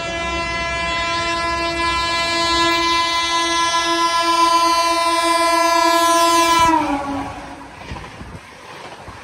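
Howrah Rajdhani Express passing at full speed: its locomotive horn blows one long, steadily louder note that drops sharply in pitch near the end as the locomotive goes by. The coaches then rush past with a rumbling clatter.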